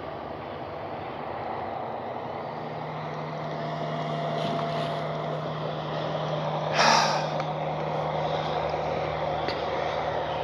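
Radio-controlled Flightline F4U Corsair's electric motor and three-blade propeller humming steadily as it comes in for a belly landing, growing slowly louder, with a brief loud rush of noise about seven seconds in.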